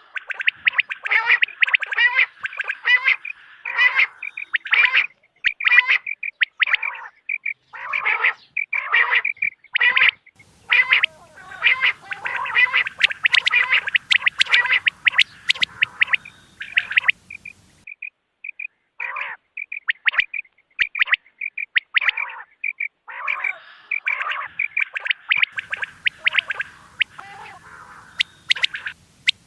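Recorded quail calls used as a hunting lure: a fast, continuous series of short, repeated calls, crowded and overlapping in places, with a run of short, evenly spaced high pips in the middle.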